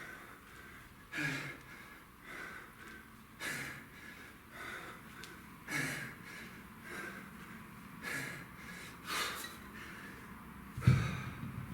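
Hard breathing of a man exercising: forceful exhales and gasps every second or two. A loud low thump near the end.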